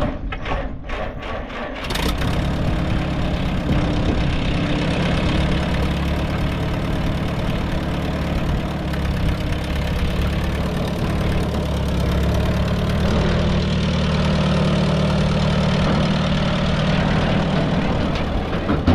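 Farmall A tractor's four-cylinder engine cranking for about two seconds, then catching and running steadily at idle.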